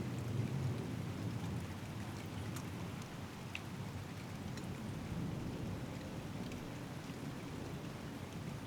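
Steady thunderstorm rain falling, with single drops ticking close by. A low rumble of distant thunder is strongest at the start and eases after the first second or so.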